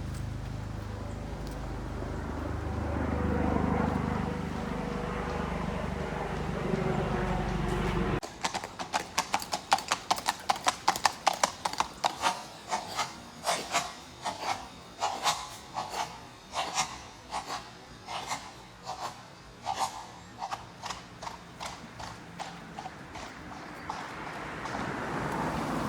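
A low rumble, then, starting abruptly about eight seconds in, horse hooves clip-clopping on hard pavement at several steps a second, loudest at first and fading away.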